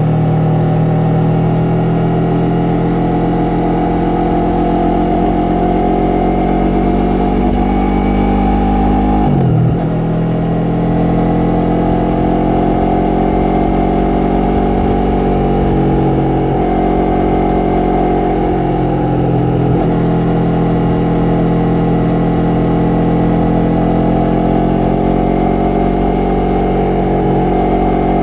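Yamaha MT-03 motorcycle engine and exhaust under way, the engine note climbing steadily with the throttle. It drops sharply about nine seconds in, then climbs again, with two smaller dips later on.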